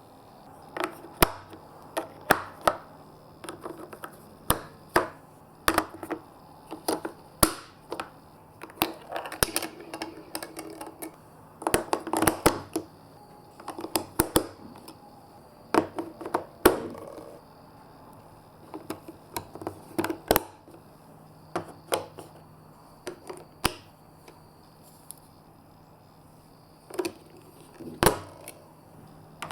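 Marbles running down a plastic block and magnet marble-run course: irregular sharp clicks and clacks as they drop onto and knock against the pieces, with short rattling runs in between.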